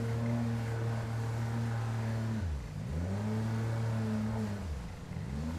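Outboard motor of an inflatable jet boat running at speed, its pitch dropping sharply and climbing back twice, about two and a half and five seconds in.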